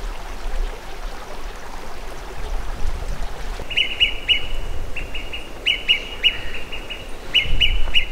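A bird calling: from about four seconds in, short high notes come in quick groups of three or four, repeated several times over a steady background noise.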